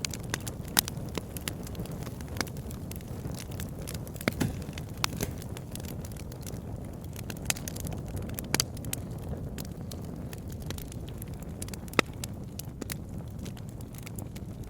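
Campfire burning with a steady low rumble and scattered sharp crackles and pops of burning wood, a loud pop near the end.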